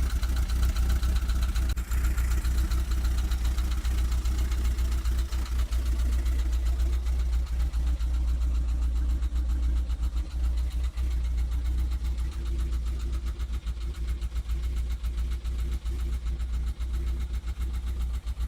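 Volkswagen Vanagon's engine running steadily, with a strong low rumble.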